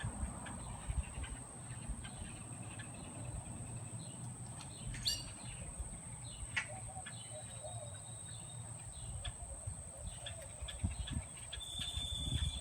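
Birds giving scattered short chirps and calls over a steady, uneven low rumble, with a thin constant high-pitched tone throughout.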